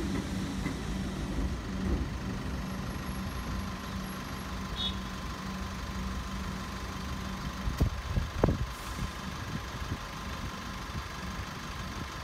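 Metro suburban electric train running past at close range, a steady low rumble and hum that fades after about seven seconds. Two sharp knocks come about eight seconds in.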